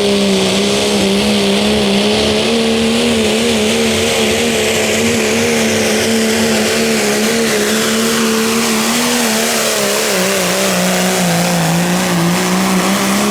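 Turbocharged diesel pickup truck in the Pro Street 2.6 pulling class hauling a weight sled at full throttle: the engine runs hard at steady high revs with a dense hiss over it, and its pitch sags slightly about ten seconds in as the pull bogs down.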